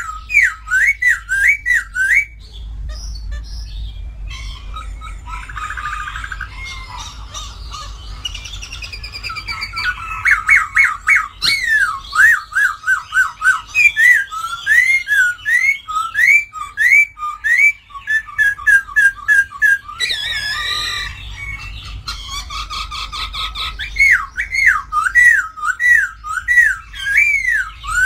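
A poksay Hongkong laughingthrush singing loudly: fast runs of whistled notes that sweep up and down, broken by harsher chattering passages about five seconds in and again about twenty seconds in.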